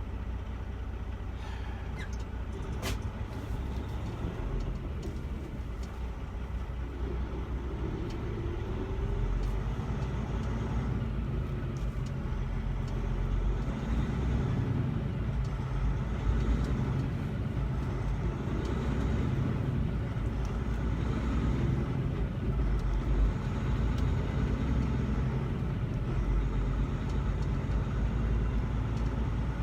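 Semi truck driving down the road, heard from inside the cab: a steady low rumble of engine and road noise that grows a little louder after about ten seconds, with the pitch rising and falling gently several times.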